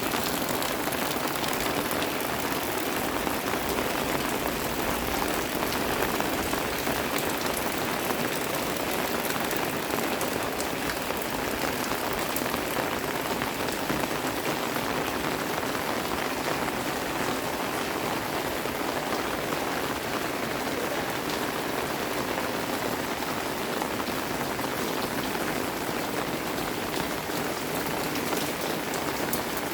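Steady rain falling: a dense, even hiss of raindrops that holds unchanged throughout.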